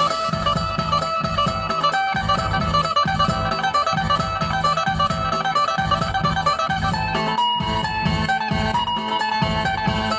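Isan phin (Thai lute) music: a quick plucked melody over a steady low beat.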